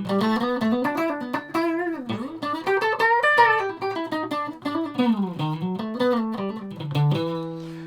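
Electric guitar of a multi-pickup Strat-style guitar playing a phrase of single notes that slide up and down, ending on a held, ringing chord near the end. The sound is the pink middle pickup combined in parallel, in phase with position 5 of the white pickup switch.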